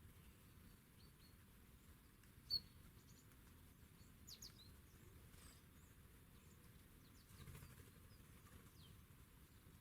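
Faint, scattered high chirps of small songbirds, with one short, sharper chirp about two and a half seconds in, over a quiet background.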